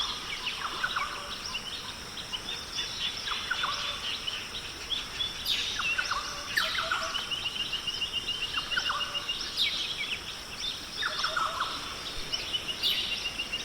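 Rainforest ambience: many birds calling and chirping, with a fast trill heard twice, over a steady high-pitched buzz.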